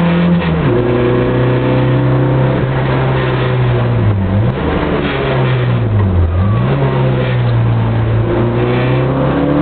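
Rally car's engine at full effort, heard from inside the cabin. Its pitch drops suddenly about half a second in, dips briefly twice, about four and six seconds in, and climbs again near the end.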